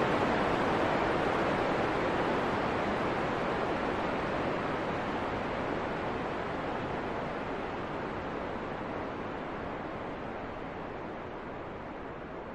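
Steady, rushing wind noise with no gusts or other sounds in it, slowly growing quieter.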